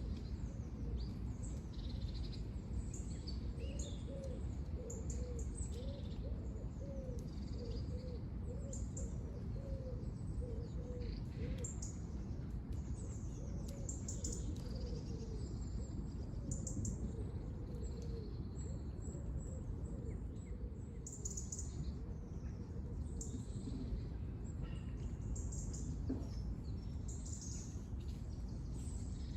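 Several small birds chirping and twittering with short high notes throughout, over a steady low background rumble. During the first half, a lower-pitched call repeats as a quick series of short notes.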